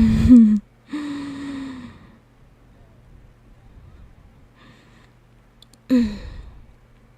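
A woman's breathy vocal effort sounds close to the microphone: a short strained grunt, then a longer voiced sigh, and another short grunt with a falling pitch near the end. A faint steady low hum runs underneath.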